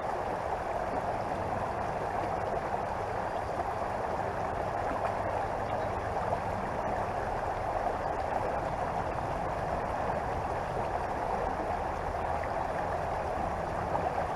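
Small creek flowing: a steady, even rush and gurgle of moving water.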